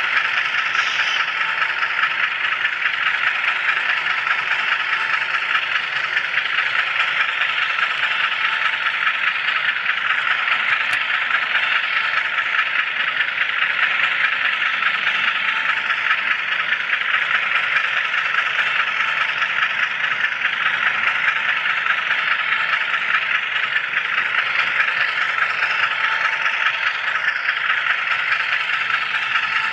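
HO scale camera car rolling along model railroad track, its small wheels and body giving a steady, fine rattle and clatter heard close up.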